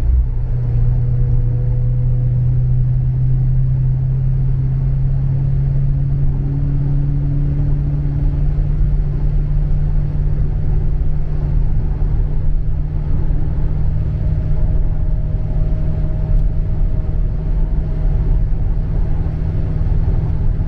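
Dodge Charger Scat Pack's 6.4-litre 392 HEMI V8 running steadily under way with a deep drone. Its pitch steps up right at the start, then climbs slowly as the car picks up speed.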